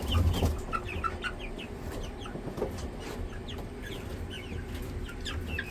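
Poultry chicks peeping among a flock of chickens: many short, high, falling peeps, scattered throughout.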